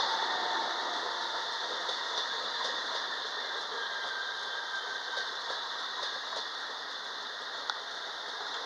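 Regional train hauled by an E464 electric locomotive moving through the station, a steady rattling rolling noise that slowly fades.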